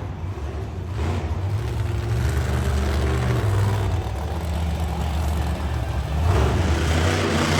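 Monster truck engine running and revving with a deep, shifting note, getting louder about six seconds in.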